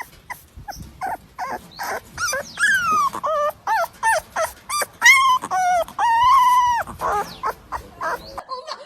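Dog whimpering and crying in a long run of short, high-pitched whines that bend in pitch, with two longer wavering cries in the middle.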